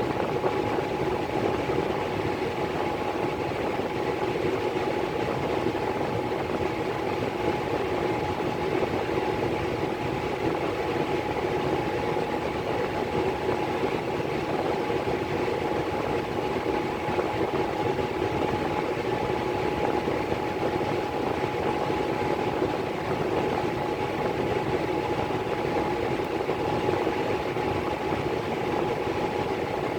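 Miller E3 furnace blower running steadily, a constant whirring noise with a steady whine over it.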